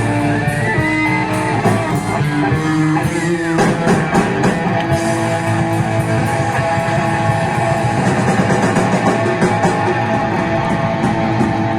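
Live rock band playing an instrumental passage: guitar chords and notes over a steady drum beat.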